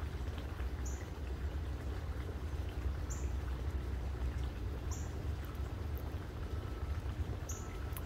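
Four short, high-pitched bird call notes, about two seconds apart, over a steady low outdoor rumble.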